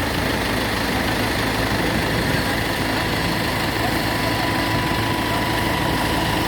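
Diesel engine of a homemade jugaad tractor, taken from an Eicher Canter truck, running steadily without revving up or down.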